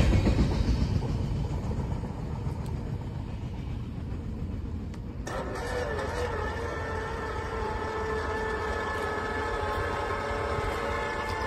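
Freight train rolling away after its last cars pass, its rumble fading over the first few seconds into a low, steady rumble. About five seconds in, a steady sound of several held tones begins and holds.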